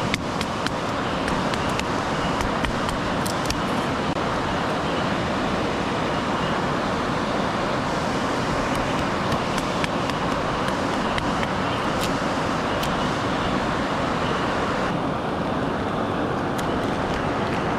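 Steady rushing of a waterfall close by: a dense, even wash of falling water with scattered small ticks of drops.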